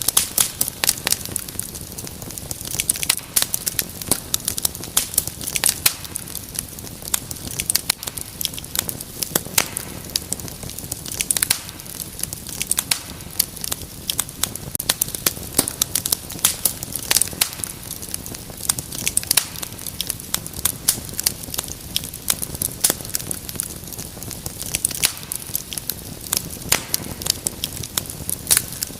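Wood fire crackling steadily, with a dense, irregular stream of sharp pops and snaps over a soft hiss.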